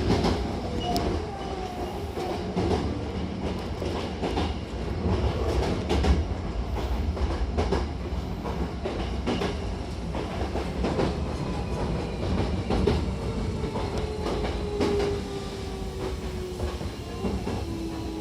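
Hankyu Takarazuka Line electric train running, heard from inside the car: a steady rumble with irregular clacks of the wheels over rail joints. A tone falls slowly in pitch over the last few seconds.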